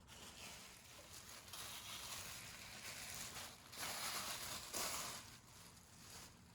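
Rustling and scraping, rising and falling in swells and loudest around four and five seconds in, as of material being rustled during play with a cat.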